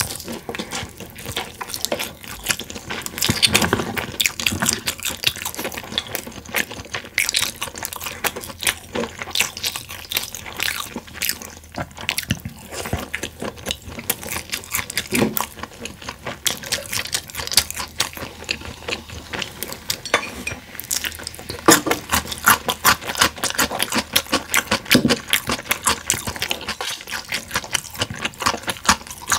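Close-miked chewing of sauced boneless fried chicken by two people: wet, sticky mouth sounds made of many quick clicks.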